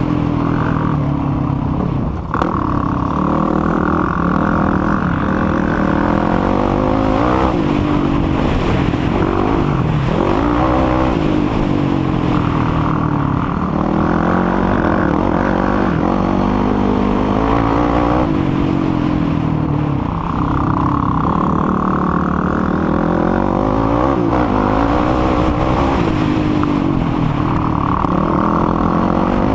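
Sport quad's engine being ridden hard, revving up and falling back over and over, its pitch rising and dropping every couple of seconds as the rider accelerates and shifts.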